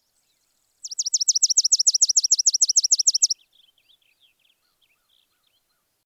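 A small bird singing a fast, high trill of about seven chirps a second, each chirp sliding down in pitch, lasting about two and a half seconds and then trailing off into a few faint chirps.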